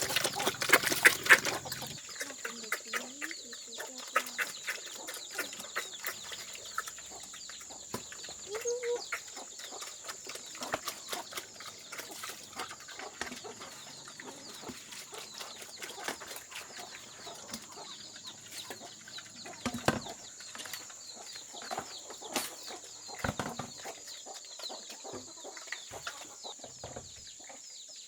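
Chickens clucking, with many short clicks and a steady high-pitched tone running underneath. A louder, denser burst of noise fills the first two seconds.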